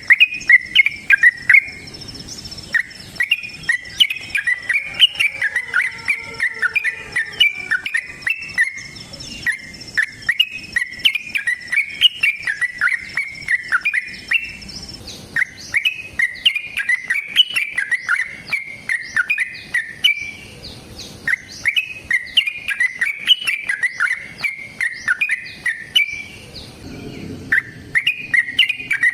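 Yellow-vented bulbul (trucuk) singing a long, fast run of bubbling chirped phrases, with short breaks about halfway and two-thirds of the way through.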